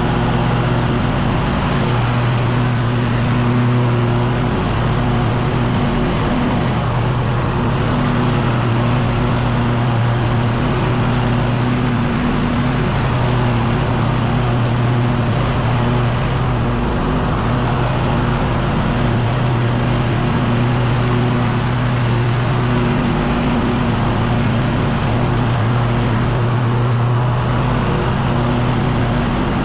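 Echo PB-9010T two-stroke backpack leaf blower running steadily at high throttle, its engine pitch dipping briefly every several seconds.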